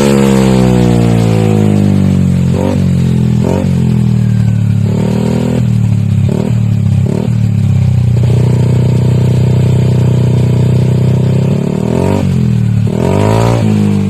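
Yamaha NMAX 150 scooter's single-cylinder engine through an aftermarket Akrapovic exhaust, revved in place: the pitch falls back toward idle, then several short throttle blips, a rev held steady for about four seconds, and another blip near the end.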